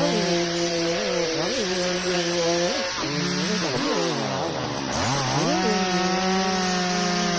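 Chainsaw engine running at high revs while cutting, its pitch dipping and recovering several times as it bogs under load, with one long, deep drop about four to five seconds in before it climbs back to full speed.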